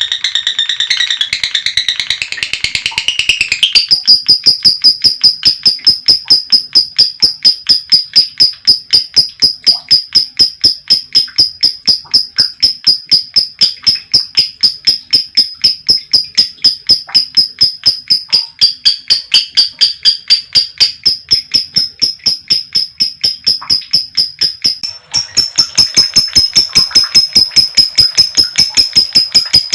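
Female lovebird's long 'ngekek' chatter: after a few seconds of mixed chirping, a fast, even run of sharp high notes kept up for over twenty seconds, with a brief break about 25 seconds in before it starts again.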